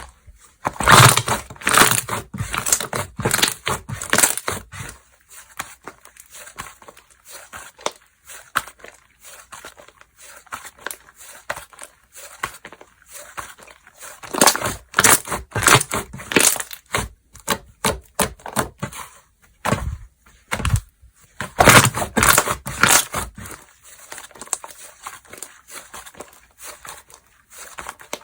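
Slime being squished, stretched and popped by hand, with dense crackling and popping clicks. It comes in louder bursts about a second in, around fifteen seconds and around twenty-two seconds, with quieter clicking between.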